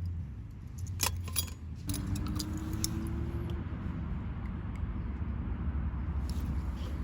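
A short burst of light metallic clinking and jingling about a second in, over a steady low rumble like a running engine.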